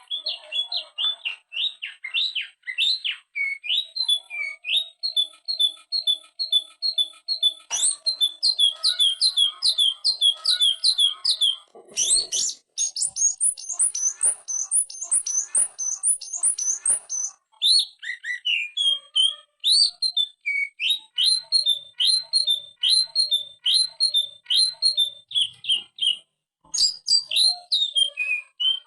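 Green leafbird (cucak ijo) in full song: long runs of fast, repeated whistled chirps, several notes a second, switching to a new phrase every few seconds with brief breaks between runs.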